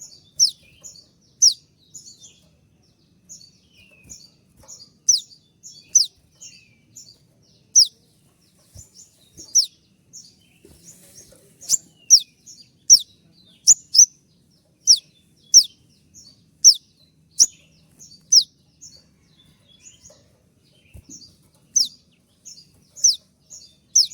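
A konin (kolibri ninja sunbird) calling: sharp, high chirps that sweep downward, repeated about once or twice a second, with softer twittering between them. These are the 'tembakan' (shot) calls that bird keepers play to spur their own konin into song.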